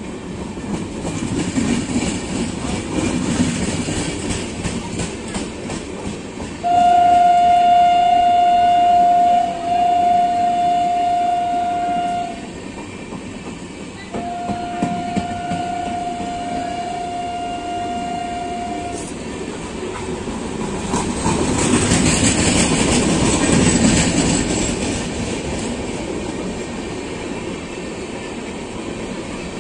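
Express train coaches rushing past at speed, with steady wheel rolling noise and clickety-clack over the rail joints. About a quarter of the way in, the train's WAP4 locomotive sounds two long steady horn blasts of about five seconds each, a short gap between them. The rolling noise swells louder later on.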